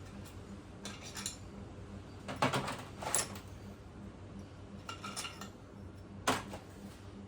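Small metal engine parts and tools clinking and rattling as they are handled and set down while the cylinder head is being stripped. The clinks come in short separate clusters; the sharpest come about two and a half seconds in and again near the end.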